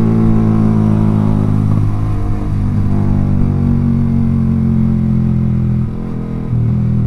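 Yamaha R15 V3's single-cylinder engine running through a Proliner aftermarket exhaust while riding, with a steady engine note. The note drops briefly about six seconds in, then picks back up.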